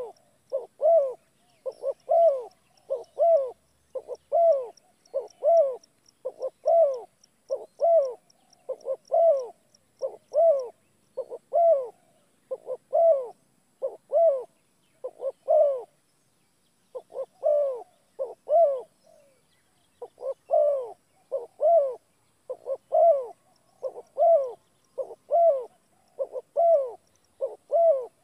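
An animal call, most likely a bird's: two short notes that fall in pitch, repeated over and over about once a second, with a short pause a little past halfway.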